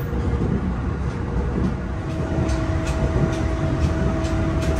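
Interior of a moving JR electric train: a steady low running rumble of the wheels on the rails, with a steady whine that shifts pitch about two seconds in.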